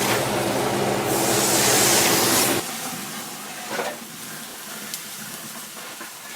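A microwave oven running with a steady hum over a loud hiss of something burning inside it. The hum and most of the hiss cut off suddenly about two and a half seconds in, leaving a quieter sizzle of the burning contents.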